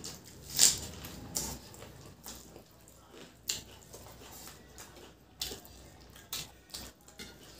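Close-up eating sounds: wet chewing and mouth smacks as rice and egg curry are eaten by hand, with scattered sharp squelches and clicks, the loudest about half a second in.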